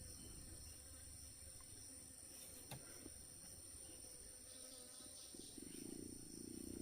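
Faint, steady chirring of insects such as crickets, with a single small click a little under three seconds in and a low rumble rising near the end.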